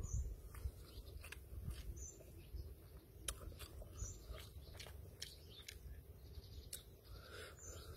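A man chewing a mouthful of instant noodles, faint and irregular wet clicks and smacks from his mouth.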